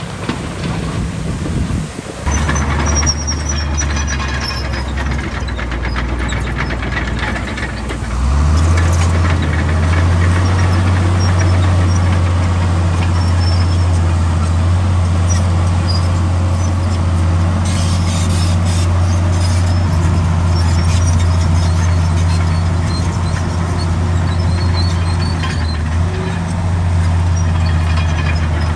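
Heavy diesel engine of a bulldozer working under load. Its revs rise about eight seconds in and stay up, with intermittent high metallic squeals over the engine.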